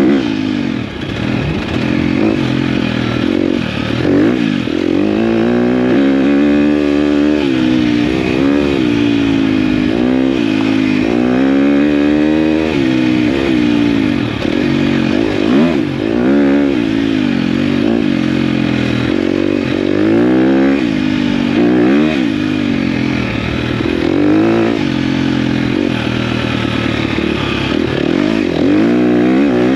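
KTM dirt bike engine being ridden, the revs rising and falling again and again every second or two as the throttle is worked.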